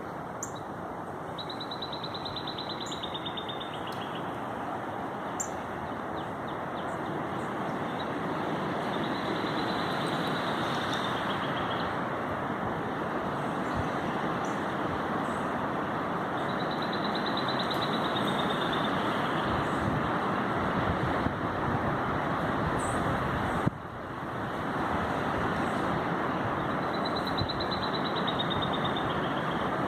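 Strong wind rushing steadily and building in strength. A high trilling call repeats four times, several seconds apart.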